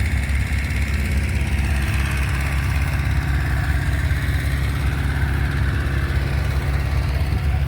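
Massey Ferguson tractor engine idling steadily with a low, even rumble.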